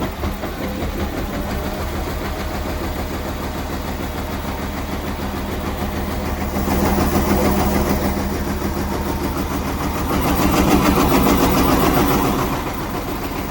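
Indesit 1400 washing machine's motor spinning the drum, a steady low running hum that swells louder twice, about six seconds in and again around ten seconds in, before easing off near the end.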